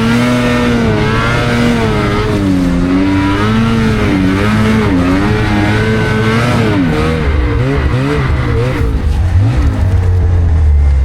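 Snowmobile engine revving under throttle, its pitch rising and falling again and again as the sled is ridden.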